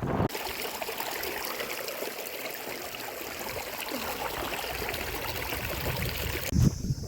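Water of a small shallow stream running, a steady trickling rush that starts abruptly just after the start and cuts off sharply near the end.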